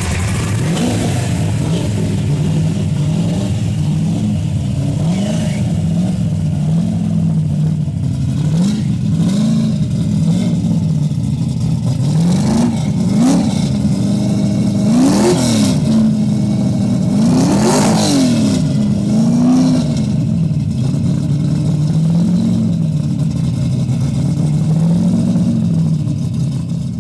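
The replacement G-code 302 cubic-inch V8 of a 1970 Ford Mustang Boss 302 race car running at idle and being blipped again and again, the revs rising and falling every two seconds or so. The two sharpest revs come about halfway through.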